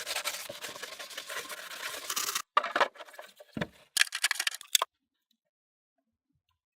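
Quick, even rubbing strokes on a surface that stop abruptly after about two seconds. A few short scrapes and clicks follow, then the sound cuts to silence about halfway through.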